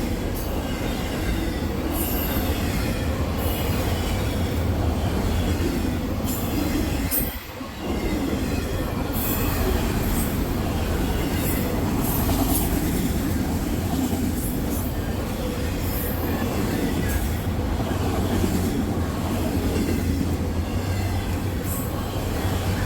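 A long freight train of auto rack cars rolls steadily past: steel wheels rumble on the rails, with short high-pitched squeals and clicks now and then. The sound dips briefly about seven seconds in.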